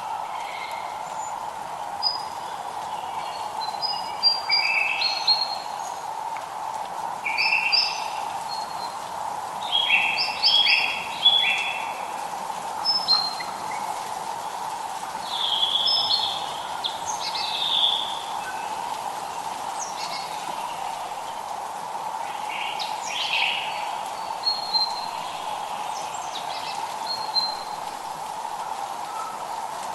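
Songbirds singing short, repeated chirping phrases every second or two, over the steady, even hiss of light rain.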